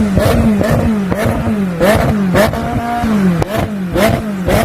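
McLaren 600LT's twin-turbo V8 on its stock exhaust, revved in quick repeated throttle blips, about two a second, with one longer held rev midway. Sharp pops and cracks from the exhaust come with many of the blips.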